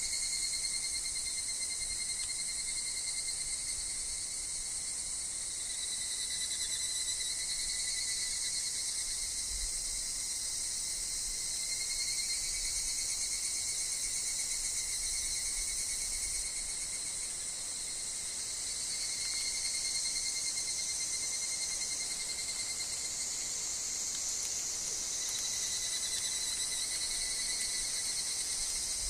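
Chorus of higurashi (evening cicadas) and other insects calling without a break: a shrill high buzz with a steady, slightly wavering tone beneath it.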